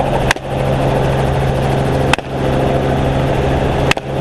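Helicopter running steadily, heard from the cabin, with three AR-15-style rifle shots fired from it about two seconds apart.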